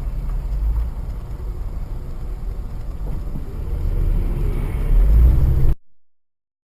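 Steady low rumble of a vehicle's engine and road noise, the kind a dashcam picks up inside a moving car or truck. It swells louder shortly before six seconds in, then cuts off abruptly into silence.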